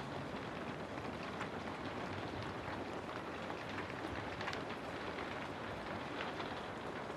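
Steady rain, with individual drops ticking sharply over a constant hiss of rainfall.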